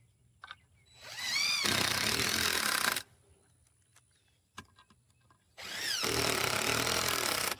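Cordless drill with a nut driver bit driving two screws through a steel fence post repair bracket into a wooden post. There are two runs of about two seconds each, and each starts with a rising whine as the motor spins up.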